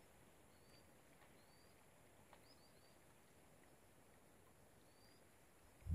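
Near silence, with a handful of faint, short, rising bird chirps now and then.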